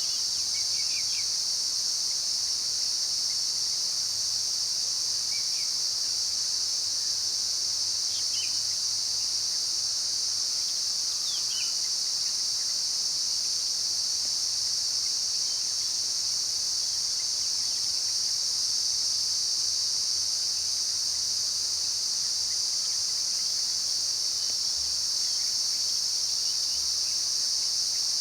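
Insects such as crickets or cicadas keep up a continuous high-pitched drone, with a few short bird chirps in the first dozen seconds.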